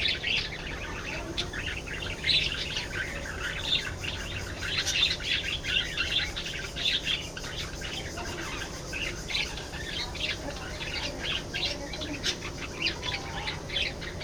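A flock of budgerigars chattering, many short overlapping chirps and warbles in a continuous stream.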